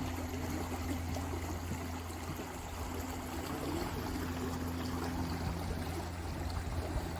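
Creek water flowing steadily over the stream bed of a salmon-spawning stream, an even rushing and trickling.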